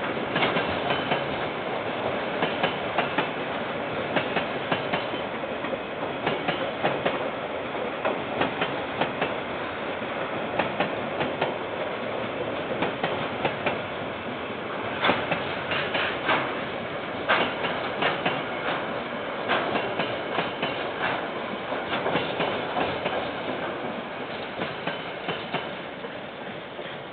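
KiwiRail freight train's wagons rolling past, heard through a security camera's microphone, with the wheels clicking over and over on the rail joints. The sound fades near the end as the train moves away.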